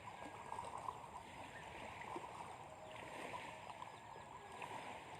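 Faint outdoor ambience: a low, even hiss with a few small ticks and rustles, no distinct source standing out.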